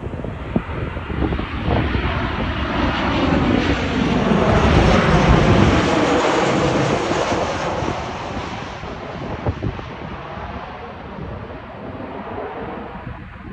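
Boeing 737 jet airliner passing close by on its landing approach: a loud jet roar that swells to a peak about midway and then fades away.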